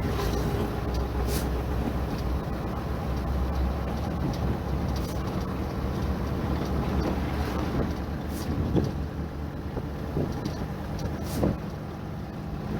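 Heavy diesel earthmoving machinery running steadily with a low engine hum, with a few sharp knocks and clanks.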